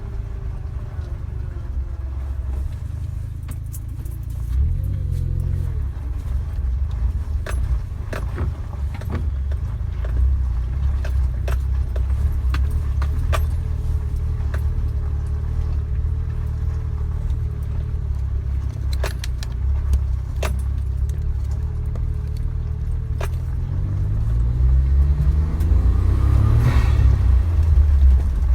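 Suzuki Jimny engine running slowly with a low rumble while the lifted 4x4 pushes through tall grass, with scattered clicks and rattles. Near the end the engine revs up, rising in pitch and getting louder.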